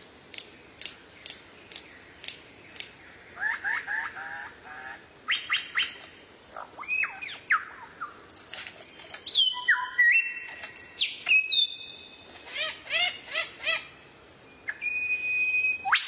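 A songbird singing a varied run of sharp chirps, falling and rising whistles, quick rattling series of notes and a few held high whistles, with short pauses between phrases.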